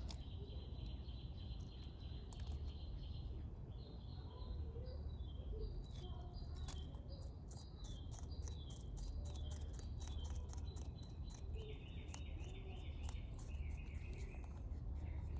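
Insects trilling in high-pitched stretches that keep stopping and restarting. From about a third of the way in comes a run of quick, dry, irregular clicks, over a steady low rumble.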